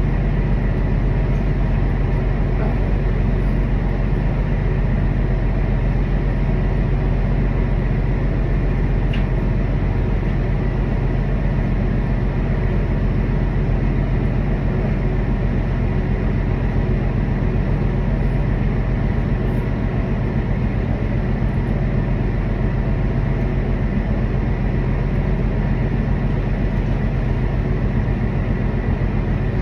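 Steady low drone of running engines, with a constant hum and an even level throughout.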